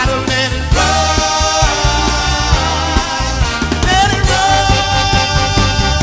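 Band music with a lead voice singing over it.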